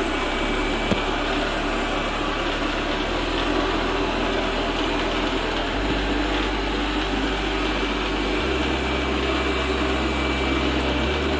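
Eufy robot vacuum running with a steady whir and a faint, thin high whine, with a single click about a second in. It is working normally on its newly replaced battery.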